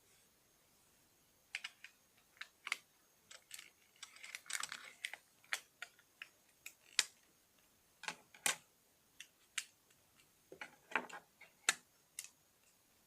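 Plastic Lego bricks clicking and clattering as they are handled and pressed together: irregular sharp clicks, with a denser clatter about four seconds in.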